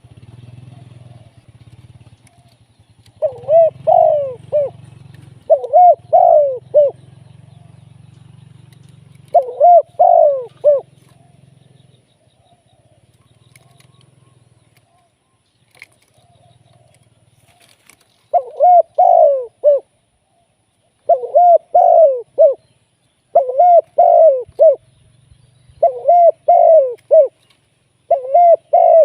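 Spotted dove cooing: eight phrases of a few rolling coos each, three in the first half and five close together in the second, with a pause of about eight seconds between. A faint low hum sits under the first twelve seconds or so.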